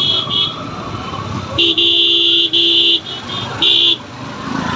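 Motorcycle horn honking in several blasts: a short one at the start, a long one of about a second and a half in the middle, and a short one near the end, over running motor and road noise.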